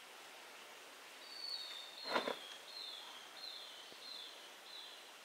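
A bird singing a run of about six short whistled notes, each sliding downward, spaced evenly about two-thirds of a second apart, over a faint steady forest hiss. A single brief knock sounds about two seconds in.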